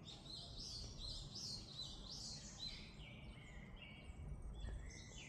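Several birds chirping and singing at once, with short overlapping calls and trills all through, over a low rumble.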